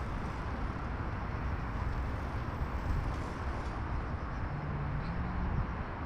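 Steady rumble of city traffic, with a brief low hum lasting about a second near the end.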